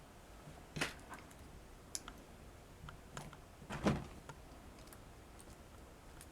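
A few small clicks and knocks of Britains toy tractors being handled and set down on a hard surface, two of them louder, about a second in and near the middle.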